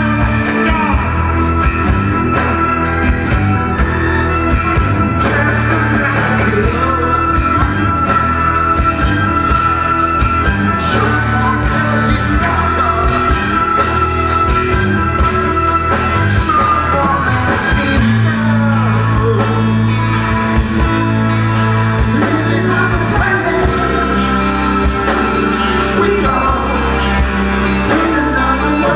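Live rock band playing a slow, steady song with male lead vocals over sustained guitar and keyboard notes, drums and a regular cymbal beat.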